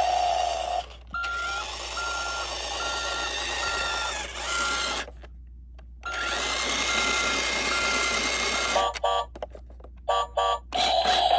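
Battery-powered Adventure Force Rev N Rock toy truck running and spinning: a motor whirring with a regular string of short electronic beeps. It stops briefly midway, starts again, and runs choppily in short stops and starts near the end.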